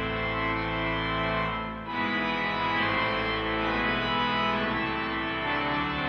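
Pipe organ playing full, sustained chords, with a short break and a change of chord about two seconds in and another change near the end.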